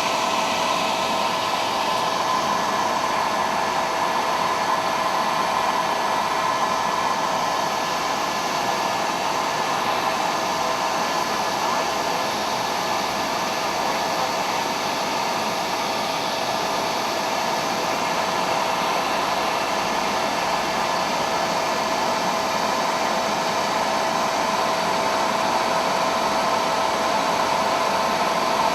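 Helicopter cabin noise: the turbine and rotor run steadily with a constant whine and a dense wash of noise, unchanging throughout.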